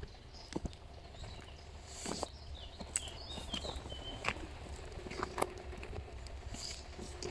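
Faint outdoor ambience: a steady low rumble with scattered light clicks and taps, and a few short high chirps in the middle.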